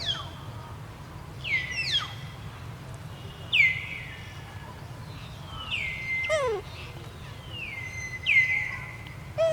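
Repeated whistle-like animal calls, roughly every one to two seconds. Each call drops sharply in pitch, then holds a steady note, over a steady low background hum.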